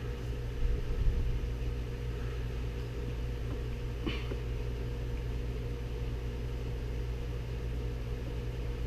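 A steady low mechanical hum, with a couple of light knocks about a second in and a faint click around four seconds in.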